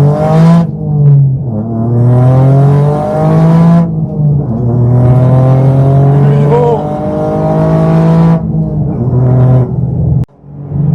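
Toyota GR Yaris's turbocharged three-cylinder engine pulling hard under full throttle, its note climbing through several upshifts, each shift dropping the revs before the next climb. About ten seconds in, the sound cuts out suddenly for a moment, then comes back.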